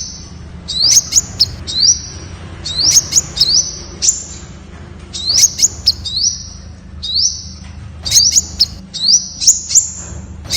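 Temminck's sunbird singing: repeated short phrases of high, thin rising notes and sharp ticks, about one phrase every two seconds, over a steady low hum.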